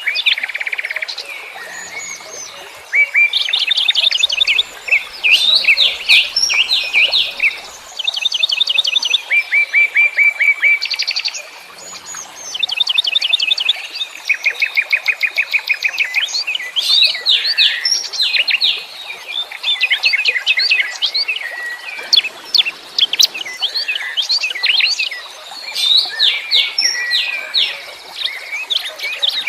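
Wild songbirds singing together in rapid trills: bursts of quick, repeated high notes, each a second or two long, overlapping one another almost without pause.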